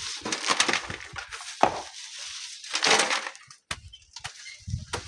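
Gritty crunching and scraping of sand and gravel in irregular bursts during manual sand mining, with a few low thuds.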